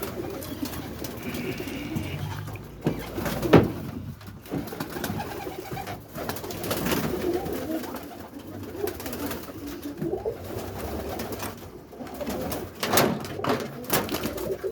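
Birmingham roller pigeons cooing inside their loft, with several sharp knocks; the loudest knock comes about three and a half seconds in, and a cluster follows near the end.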